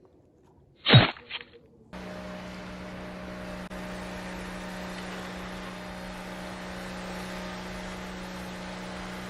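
A sharp knock and a smaller one just after it. Then, about two seconds in, a steady motor hum starts at an even pitch and runs on.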